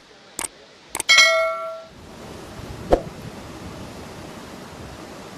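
Two sharp clicks, then a ringing metallic ding that fades out within a second, and a single sharp knock about three seconds in, over a steady rushing noise typical of released floodwater.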